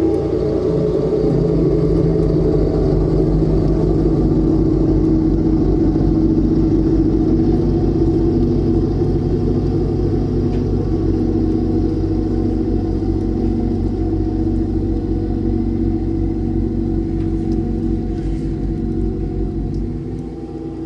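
John Deere X738 garden tractor engine running steadily with a fast low pulse, easing off a little near the end.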